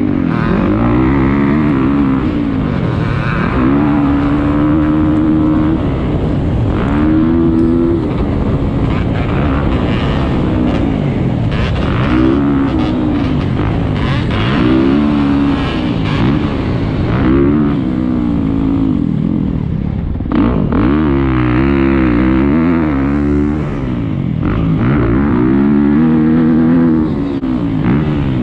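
Motocross bike engine ridden hard around a track, revving up and dropping back again and again as the rider works the throttle and gears.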